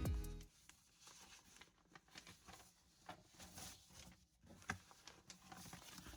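Strummed guitar music fades out in the first half second, then faint, scattered light taps and rustles, as of small objects handled at a desk.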